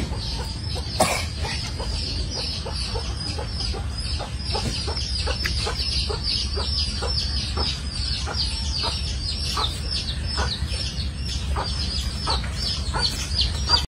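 Birds chirping rapidly outdoors, a steady run of short, high, falling chirps, several a second, over a steady low hum.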